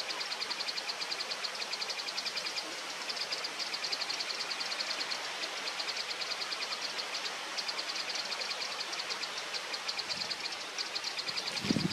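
Outdoor ambience with a steady, fast-pulsing high-pitched trill, typical of insects, over a light hiss. A low thump comes near the end.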